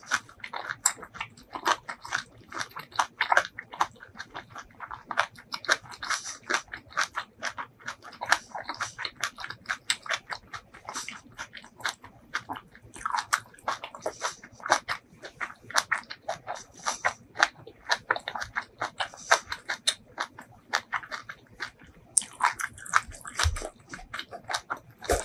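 Close-miked chewing of a mouthful of food with the lips closed: a rapid, irregular run of wet mouth clicks and smacks. Near the end comes a softer rustle as fingers dig into a mound of rice.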